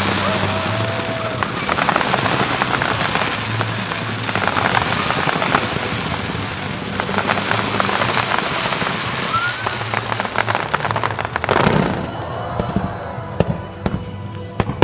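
Fireworks display: a dense crackling of many shells bursting together, with a couple of short whistles, over music from the show's loudspeakers. About twelve seconds in the crackling thins out, and a few sharp bangs follow near the end.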